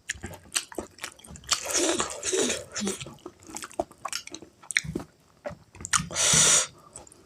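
Close-miked chewing of spicy pork curry with rice: wet mouth clicks and smacks, with a louder rushing burst about six seconds in.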